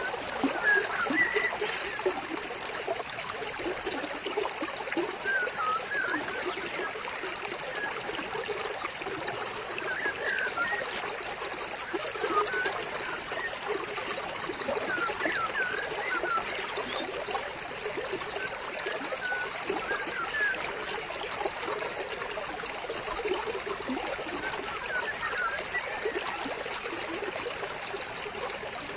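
Stream water trickling and gurgling steadily, with scattered short high chirps throughout.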